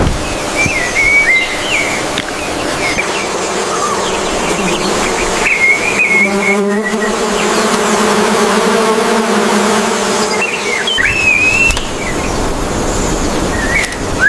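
Short, wavering whistled bird calls, repeated a few times, over a steady hiss of background ambience. A low, steady hum joins the ambience from about six seconds in and stops about eleven seconds in.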